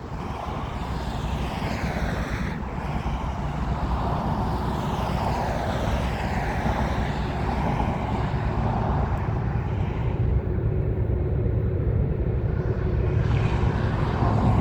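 Distant CN diesel freight train approaching: a low rumble that slowly grows louder.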